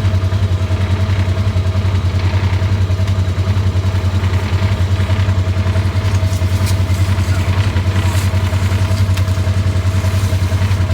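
Vehicle engine running at a steady speed with an even low throb.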